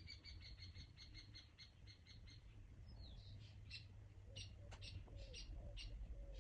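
Faint birdsong: a quick run of repeated high chirps, about six a second, for the first two seconds or so, then scattered single chirps, over a low steady hum.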